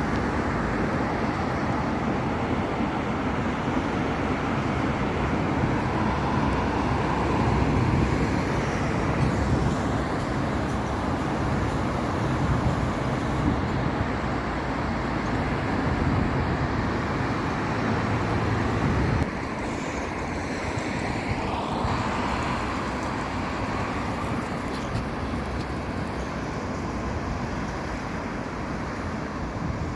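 Road traffic on a city street, a steady noise of passing vehicles with a heavy low rumble. The overall sound drops suddenly a little about two-thirds of the way through, and a vehicle sweeps past soon after.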